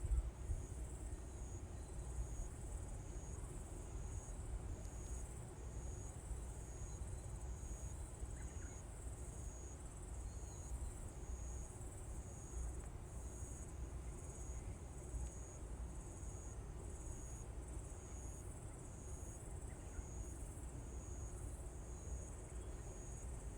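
An insect chirping steadily in an even pulse, a short high chirp roughly once a second, over a low steady rumble.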